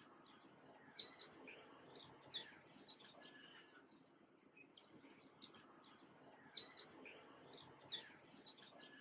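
Small birds chirping: short, high chirps in two bursts, one about a second in and another from about six and a half seconds in, over a faint background hiss.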